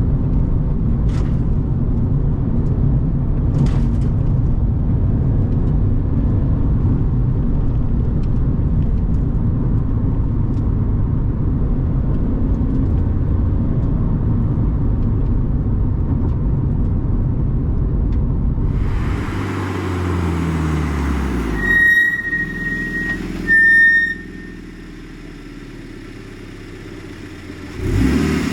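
Turbocharged 2013 Scion FR-S's 2.0-litre flat-four engine running steadily with road noise while driving. Later the engine note falls as the car slows, two short high-pitched squeals sound, and the engine settles to a quieter idle before a brief rev near the end.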